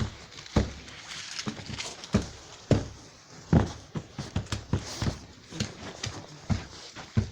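Wood campfire crackling: irregular sharp pops and knocks at uneven intervals over a faint hiss.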